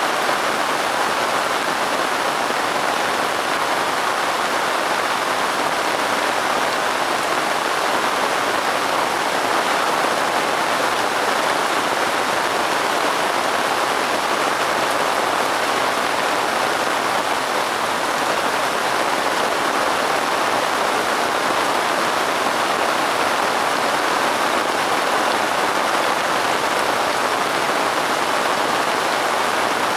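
Steady rain falling on a surface: an even hiss that never breaks or swells, with no thunder.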